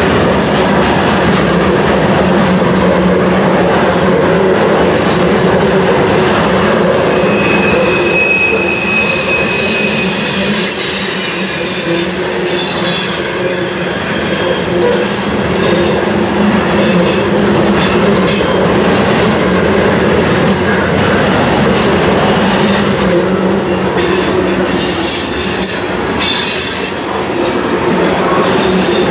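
Loaded open hopper cars of a CSX rock train rolling past on curved track: a steady, loud rumble of wheels on rail. Several high-pitched wheel squeals come through, about a third of the way in and again near the end.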